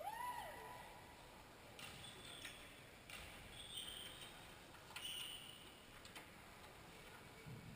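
A short, high-pitched vocal cry that rises and then falls, followed by a few faint, scattered clicks and knocks.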